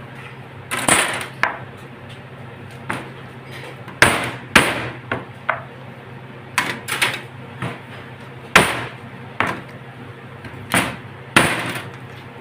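A series of about a dozen sharp knocks and clatters at irregular intervals, some ringing briefly, over a steady low hum.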